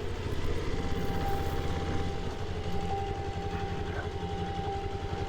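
Single-cylinder engine of a Kawasaki KLX 300 dual-sport motorcycle running at a steady low speed, with an even, rapid low pulsing.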